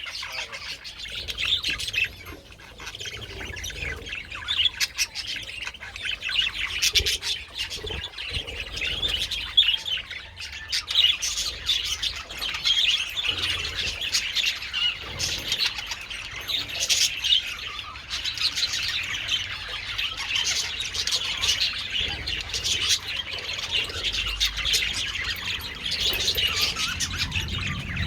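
A colony of budgerigars chattering and chirping continuously, many birds at once, with scattered sharp clicks among the calls.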